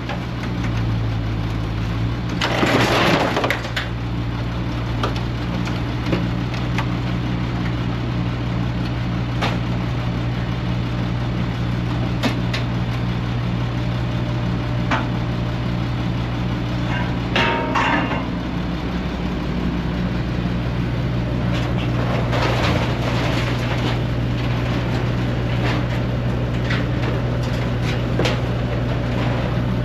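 A heavy machine's engine runs steadily while a claw grapple handles scrap, with loud crunching and cracking of metal about three seconds in and twice more past the middle, and scattered sharp clicks between.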